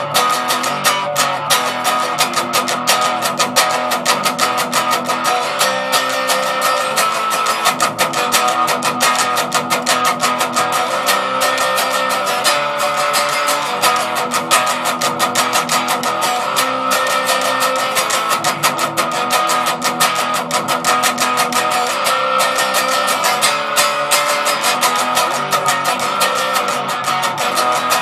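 Les Paul electric guitar played through an amplifier's plain distortion channel with no other effects: a continuous run of fast picked notes and riffs.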